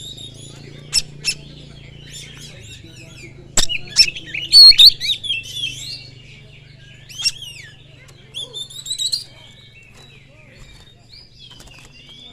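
Oriental magpie-robin (kacer) singing in separate bursts of varied whistles and chattering notes with pauses between them, the loudest phrases a few seconds in. A few sharp clicks come between the phrases.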